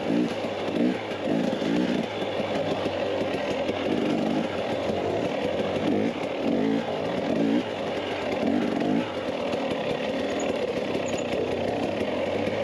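Dirt bike engine running while riding, its pitch repeatedly climbing and dropping every second or so as the throttle opens and closes and the gears change.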